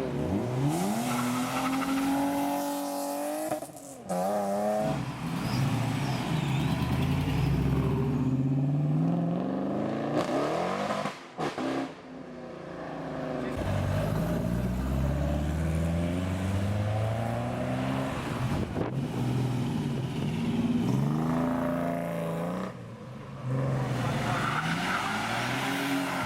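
Car engines accelerating hard as they pull away, climbing in pitch several times and falling back between climbs, as at gear changes. These are classic Fords leaving the meet.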